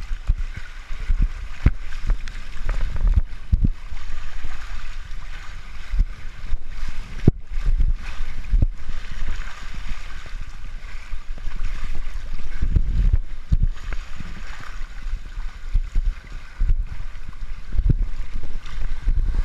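Wind buffeting the microphone over a steady rush of water, with many short low thumps throughout.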